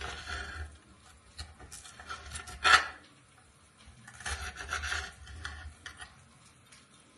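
Knife cutting bell peppers on a cutting board: rasping, scraping strokes in three spells, with a sharp knock near the middle.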